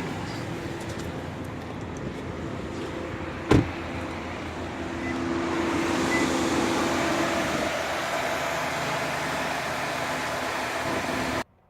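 A 2019 Subaru Ascent's 2.4-litre turbocharged flat-four running steadily, heard with a hum and a hiss of air. There is a sharp click about three and a half seconds in, and the hiss grows brighter partway through. The whole sound cuts off abruptly near the end.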